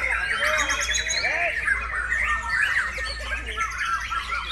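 White-rumped shama (murai batu) singing continuously in rapid, varied phrases of quick whistled glides and trills, with no pause between phrases.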